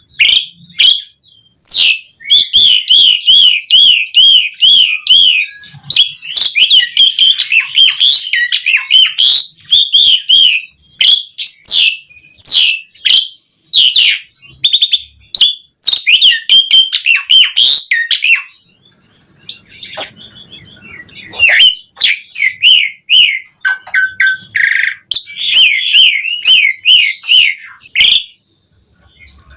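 Asian pied starling singing vigorously: a rapid, varied stream of wavering whistled trills mixed with sharp clicking notes, broken by a couple of short pauses.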